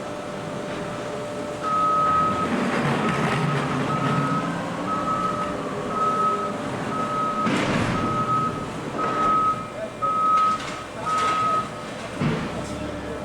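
Backup alarm beeping about once a second, around ten single-pitched beeps, over the low rumble of heavy machinery. A loud clank comes partway through.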